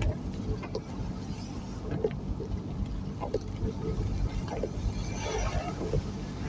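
Road and engine noise of a vehicle driving along, a steady low rumble with scattered short clicks and knocks.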